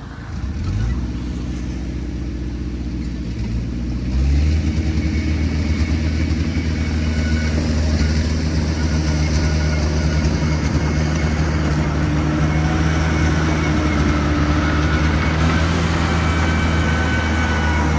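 Diesel engine of heavy earthmoving machinery running. It picks up revs about a second in and again around four seconds in, then holds steady under load, with faint high squeaks on top.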